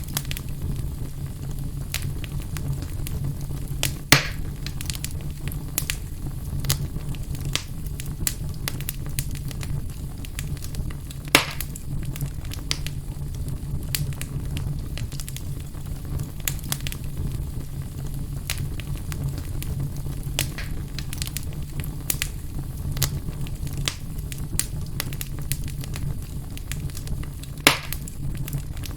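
A fire burning in a fireplace, with a steady low rumble and frequent small crackles. Three louder sharp pops stand out: one about 4 seconds in, one about 11 seconds in, and one near the end.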